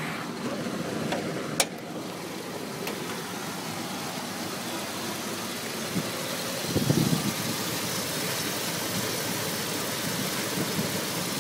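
Dodge Ram pickup engine idling rough, with a sucking noise that the owner traces to under the intake manifold and guesses could be the distributor. A sharp click about a second and a half in, and the engine gets a little louder about two-thirds of the way through.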